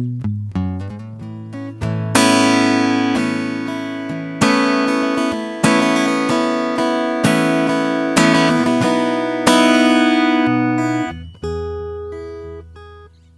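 Acoustic guitar played slowly: a few picked notes, then full chords strummed every second or two and left to ring out, thinning to soft single notes near the end.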